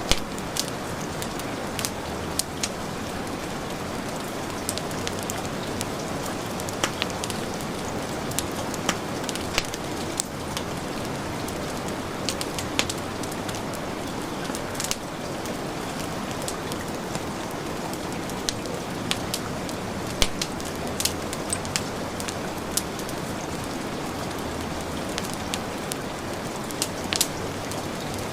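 Heavy rain falling steadily, with a wood fire crackling: sharp irregular pops, several a second, over the rain's even hiss.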